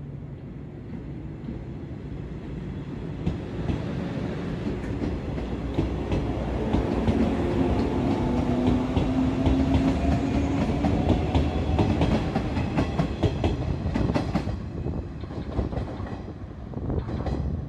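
A train passing close by. It builds up with a droning hum and rhythmic clickety-clack of wheels over rail joints as the cars go past, loudest in the middle, then eases off near the end.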